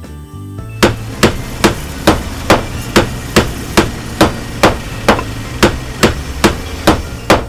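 Hammer blows struck in a steady rhythm, a little over two a second and about sixteen in all, starting about a second in, over a low steady hum.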